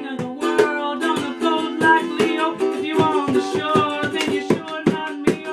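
Ukulele strummed in a steady rhythm, with a voice singing or rapping over it.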